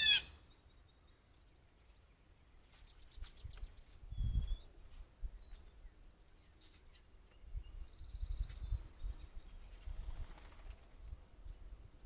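A bird gives one loud, harsh call right at the start, followed by scattered faint high chirps and short whistles from small birds. Low, dull thumps and rumbles come about four seconds in and again later.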